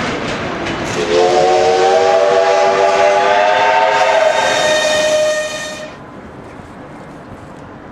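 Whistle of the L-class steam locomotive L-3055 blowing for about five seconds, a chord of several tones that rises slightly in pitch, over the rolling clatter of the moving train. A burst of steam hiss joins near the end, then the whistle cuts off and only quieter background noise remains.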